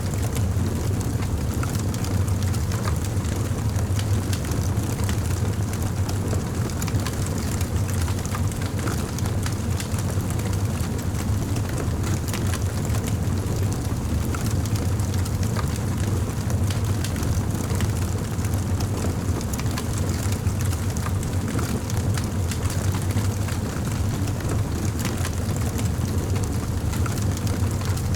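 Campfire burning: a steady low rumble from the flames with many small crackles and pops.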